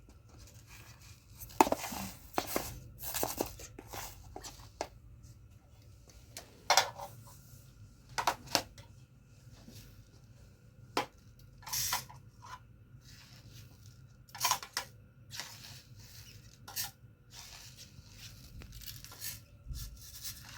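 Irregular rustling, crinkling and sharp clicks from a bag of bird seed and a plastic food container being handled while the birds' food is refilled.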